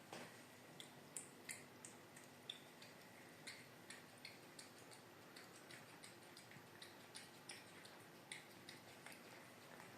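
A cat eating canned tuna: faint, irregular wet clicks and smacks of chewing and licking, about two or three a second.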